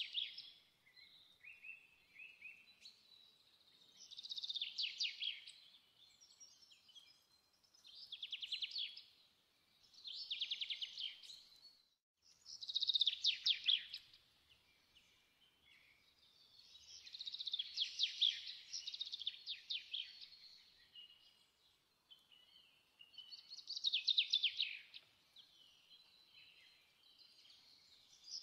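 A small songbird singing short, rapid trilled phrases, one every two to four seconds.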